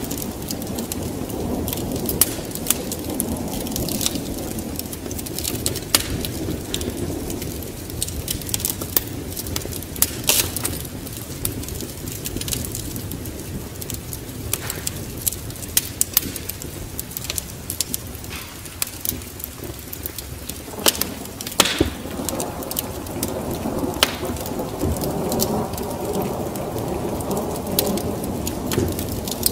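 Steady rain with a low rumble of thunder that swells in the last third, over many sharp, irregular crackles and pops of a wood fire in a fireplace.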